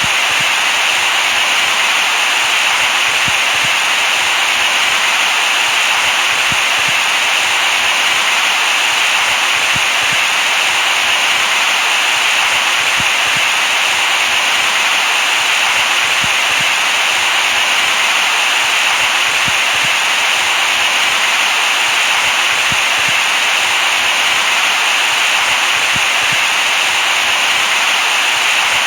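Steady, unchanging hiss of electronically generated white noise, brightest in the upper middle, with little bass.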